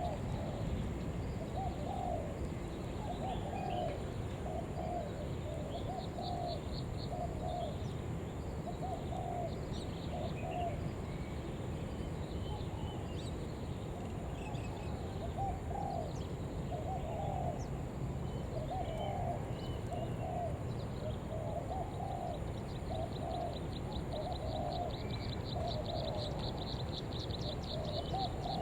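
Spotted dove cooing over and over in short, quick phrases, the urging call of a decoy dove. Other small birds chirp at times, and a fast high ticking trill joins in near the end over a steady low hum.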